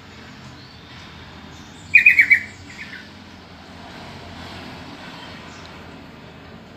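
Sooty-headed bulbul (trucukan) calling: a quick burst of four or five loud, slightly falling notes about two seconds in, then one softer note, over a steady faint background hiss.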